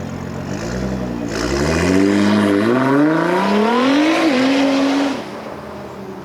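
Nissan GT-R R35's twin-turbo 3.8-litre V6 accelerating hard. The pitch climbs through the gears, with quick upshifts about a second in, near the middle and about four seconds in. The sound drops away suddenly near the end.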